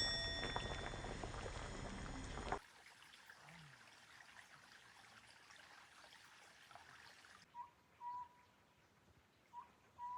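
A louder mixed stretch with a brief ringing chime at the start cuts off abruptly after about two and a half seconds, leaving a faint steady hiss. From about seven and a half seconds, a bird calls short whistled notes in pairs about half a second apart.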